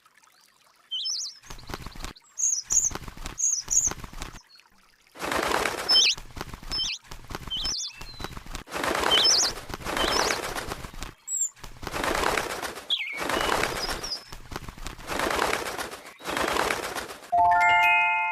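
A small bird chirping in short, quick calls, over repeated bursts of rushing noise, each about a second long. A bell-like chime rings near the end.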